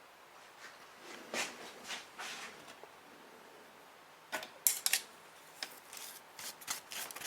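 Hard metal parts and tools being handled in a quiet workshop: a few soft rustles, then, about four seconds in, a run of sharp clicks and clinks.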